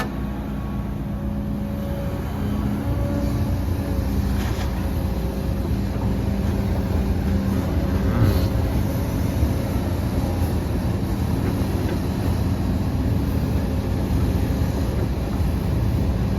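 Heavy diesel earthmoving machinery running steadily at a low, constant engine note, with a couple of brief knocks partway through.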